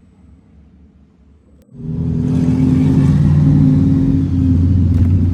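A faint low rumble, then a gasser drag car's engine comes in suddenly and loud just under two seconds in and keeps running at a steady speed.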